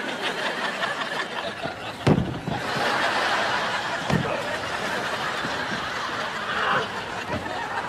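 Crowd laughter from a sitcom studio audience, swelling a couple of seconds in, with two dull thumps about two and four seconds in.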